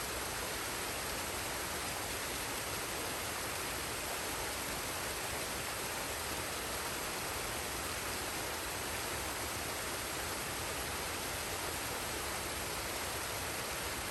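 Waterfall and stream water rushing, a steady even hiss with no changes.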